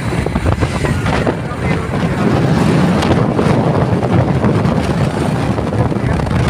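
Motorcycle riding along a road at speed: wind buffeting the microphone, with the engine and road noise underneath.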